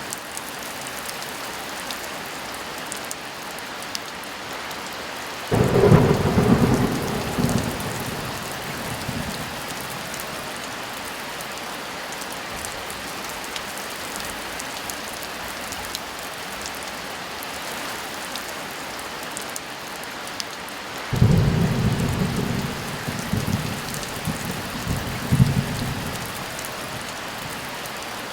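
Steady heavy rain with two claps of thunder: one breaks suddenly about a fifth of the way in and rumbles off over a couple of seconds, and a second starts about three quarters of the way in and rolls on in several surges for around five seconds.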